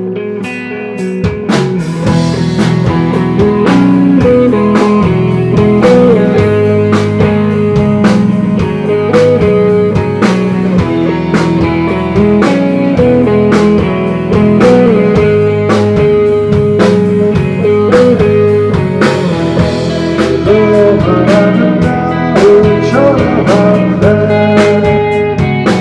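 Rock band playing live with electric guitars, bass and drums. A quieter guitar opening gives way about a second in to the full band, with drums keeping a steady beat and a guitar line bending in pitch over it.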